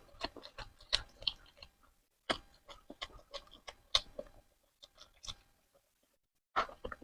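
Close-miked chewing: quick, irregular wet mouth clicks and smacks of eating, pausing briefly about two seconds in and again near the end.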